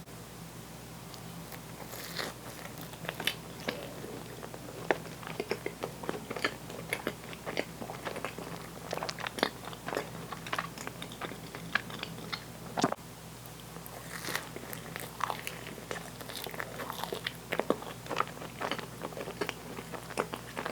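Close-miked eating: a person biting and chewing with crisp, crunchy crackles, many small irregular clicks right through.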